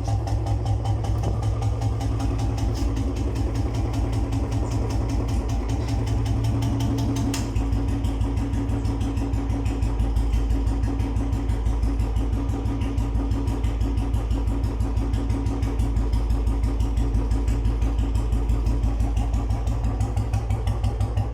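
Royal Enfield Bullet Standard 350 single-cylinder engine idling through a long Punjab-style silencer with an empty bend, a steady, even dug-dug exhaust beat with little mechanical engine noise.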